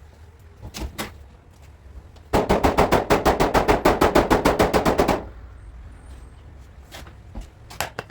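Rapid hammering on car-body sheet metal: a run of about twenty evenly spaced sharp strikes, about seven a second, lasting some three seconds. A couple of single knocks come before it, and a few more near the end.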